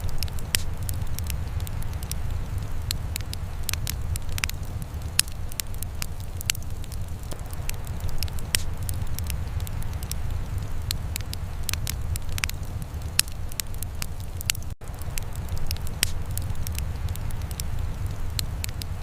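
Wood fire burning in a fireplace: a steady low rumble of flames with frequent, irregular sharp crackles and pops from the logs. About three-quarters of the way through the sound drops out for a split second.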